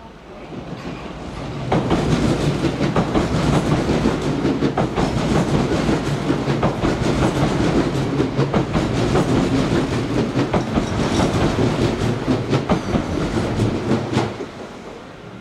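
Kintetsu electric train running along the platform, a loud rumble with rapid clicking of wheels over rail joints, which comes up sharply about two seconds in and fades out near the end.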